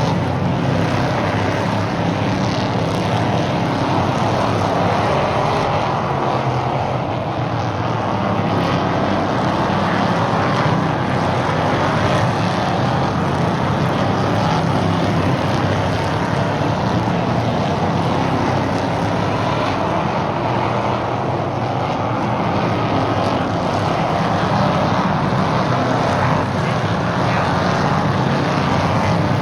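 Stock car engines running at racing speed on an oval track, a steady loud drone with slight swells as the cars circle.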